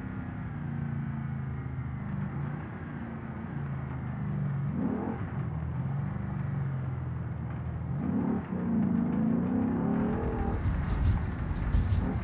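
Porsche Cayenne Turbo S twin-turbo V8 heard from inside the cabin while driving, its engine note rising twice as the revs climb under acceleration, about halfway through and again near the end. From about ten seconds in, a louder, rough crackling noise joins it.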